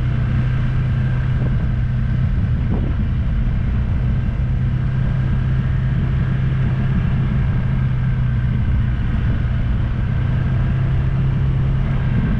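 Steady engine drone of a vehicle on the move, with a constant low hum and road noise.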